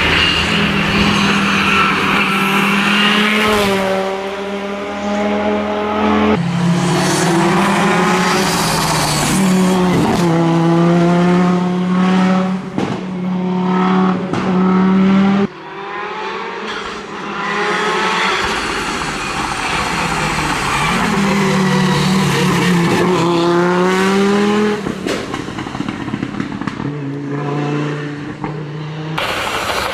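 Audi Quattro S1 rally car's turbocharged five-cylinder engine driven hard, its note climbing again and again through gear changes. It lifts off sharply about halfway through and again near the end.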